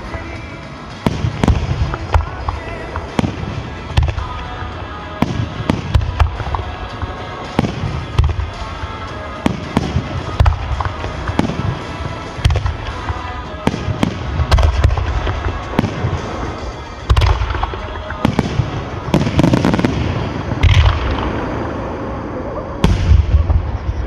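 Fireworks display: aerial shells bursting one after another, deep booms with crackle between them. The bursts come faster and heavier toward the end.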